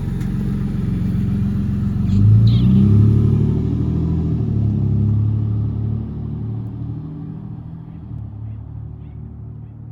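Exhaust of a 2013 Toyota 4Runner SR5 through a Spintech muffler, a steady low rumble that swells for about a second a couple of seconds in, then fades steadily over the last four seconds.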